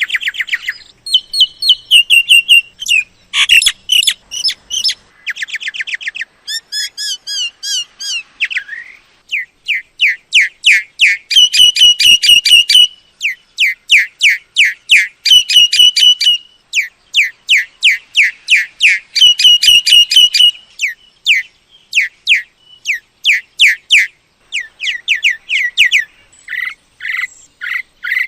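Myna calling in long runs of rapid, repeated sweeping whistled notes, several a second, broken into bursts by short pauses, with a few varied chattering phrases mixed in.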